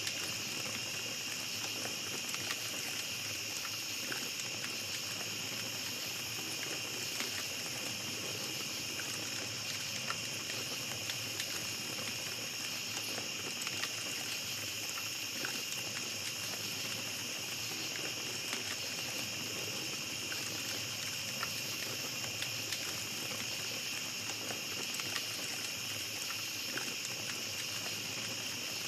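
Small campfire crackling with scattered small pops, over a steady, high-pitched chorus of night insects.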